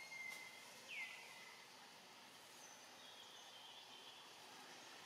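Faint forest background with a few short whistled bird calls, each sliding down in pitch, the clearest about a second in.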